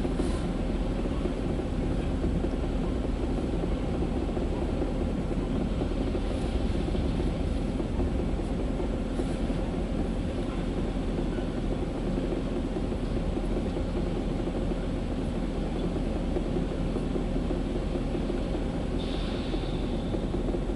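Ryko Softgloss Maxx automatic car wash running steadily partway through its cycle, a constant mechanical rumble and hiss.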